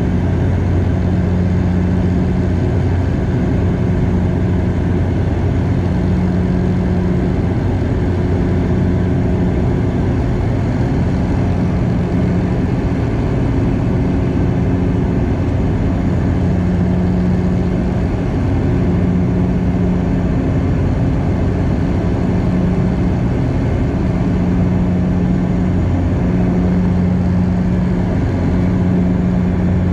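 Cabin noise of a Bombardier DHC8-Q400's turboprop engines and propellers: a steady loud drone with a low hum that swells and fades every couple of seconds.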